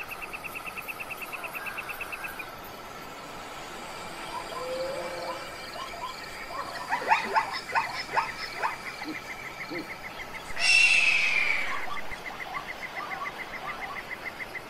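Nature sounds: an insect trilling in fast, even, high pulses, broken in the middle by a string of short animal chirps and clicks and, about eleven seconds in, one loud falling call, after which the trill resumes.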